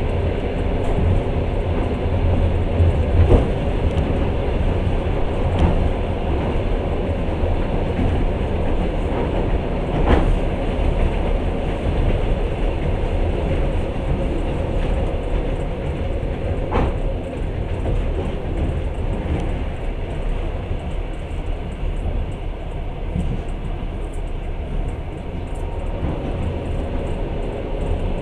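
Passenger train running at speed, heard from inside the carriage: a steady rumble of wheels on the track with a few single sharp knocks at uneven intervals as the wheels cross rail joints and points.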